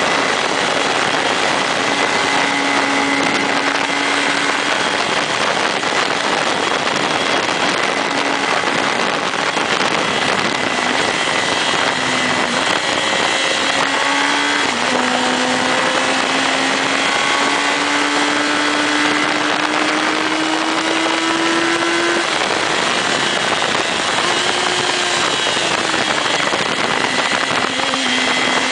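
Motorcycle engine running under way, its pitch stepping and slowly rising with speed and gear changes and dropping back about 22 seconds in, under a loud, steady rush of wind.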